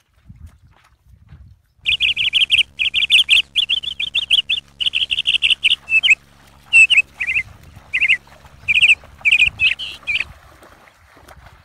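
A bird chirping loudly in quick repeated phrases over a faint steady hum; it starts about two seconds in and cuts off abruptly near the end.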